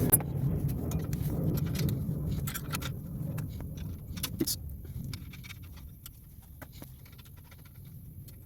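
Light metallic clinks and rattles of an exhaust pipe clamp being fitted by hand onto the pipe, over a low rumble that fades away over the first few seconds.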